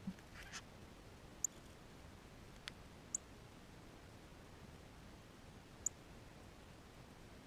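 Three short, high-pitched chip calls from a bird at a backyard feeder, spaced a second or more apart, with a sharp click and a brief rustle, all faint over a quiet hiss.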